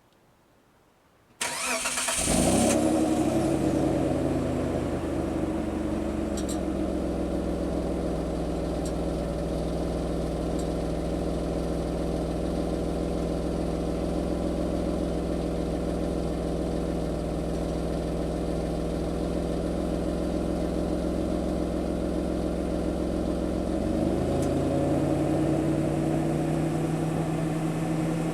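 Mitsubishi Delica Space Gear's 6G72 3.0-litre V6 petrol engine, heard through its stock factory muffler, cranking and starting a second or so in, flaring briefly, then settling to a steady idle. About 24 seconds in the idle rises a little and holds at the higher speed.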